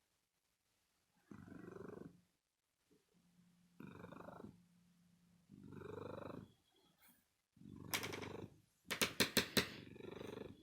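Domestic cat purring in rumbling bursts a second or two apart, one with each breath. A few sharp clicks sound over it about nine seconds in.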